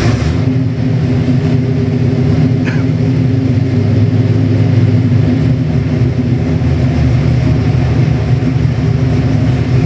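All-aluminum 427 cubic-inch ZL1 big-block Chevrolet V8 running at a steady speed, loud and deep, with no revving up or down.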